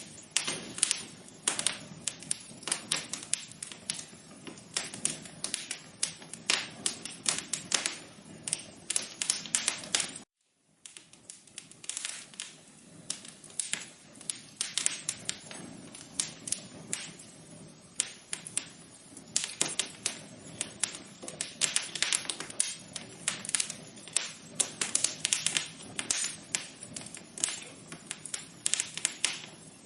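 Wood fire crackling: a dense, irregular run of sharp pops and snaps over a steady low hiss of burning logs. The sound cuts out completely for about half a second around ten seconds in, then resumes.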